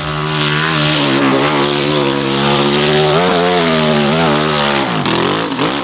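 Enduro dirt bike engine revving hard at high revs with the pitch wavering as the rider works the throttle; near the end the revs drop sharply twice and pick back up.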